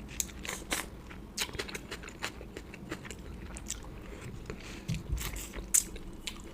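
Close-miked chewing of a mouthful of food: irregular wet mouth clicks and small crunches, a few louder than the rest.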